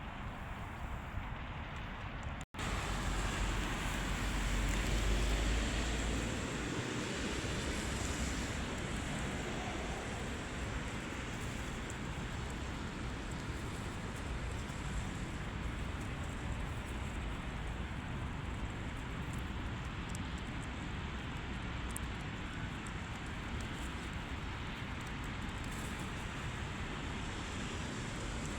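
Steady rushing wind noise outdoors, with gusts buffeting the microphone in a low rumble for a few seconds after a brief cut-out near the start.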